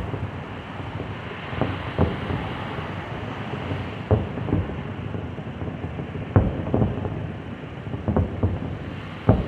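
Aerial firework shells bursting in an irregular series of dull booms, about ten in all, some coming in quick pairs, over a steady rush of wind on the microphone.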